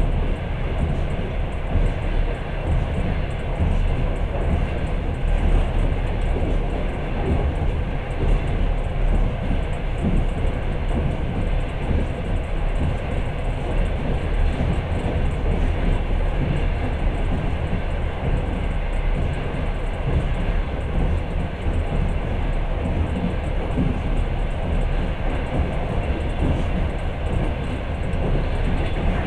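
Passenger train running at speed: a steady rumble and rush of wheels on the track, heard from inside the carriage at the window.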